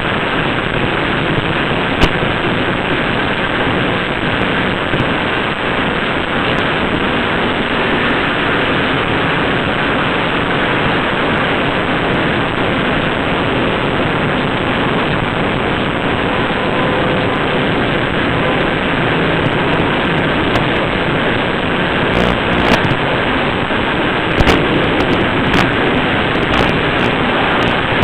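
N scale model train running on its track, heard through a small camera riding on it: a steady rattling rumble with one sharp click about two seconds in and several more near the end.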